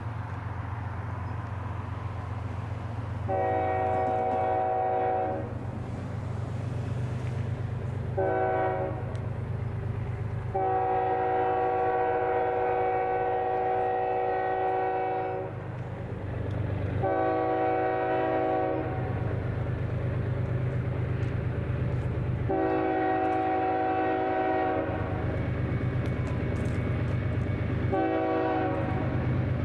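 Diesel locomotive's multi-chime air horn sounding a series of blasts, mostly long with a couple of short ones, the pattern of a grade-crossing signal. A steady low locomotive rumble runs beneath.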